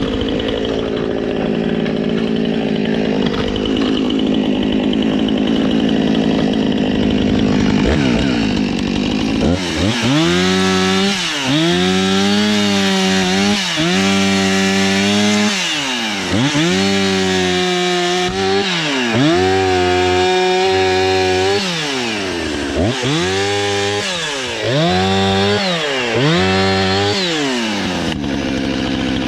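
Gas chainsaw running, then about a third of the way in revved up and let back down again and again, its engine pitch rising, holding high and falling about nine times before settling back to a steady run near the end.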